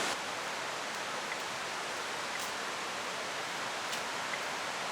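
Waterfall water rushing: a steady, even roar of falling water.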